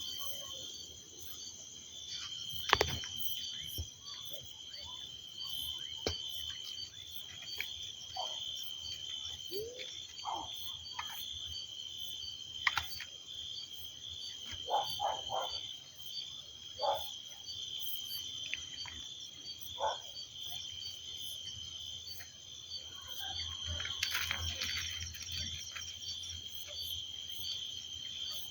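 Night chorus of frogs and insects: a steady, high-pitched pulsing trill, with short lower frog calls scattered through it. A few sharp clicks stand out, the loudest about three seconds in and again near thirteen seconds.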